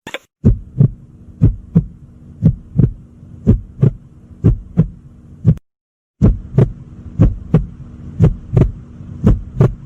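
Heartbeat sound effect: paired lub-dub thumps about once a second over a steady low hum. It breaks off for about half a second a little past halfway, then starts again.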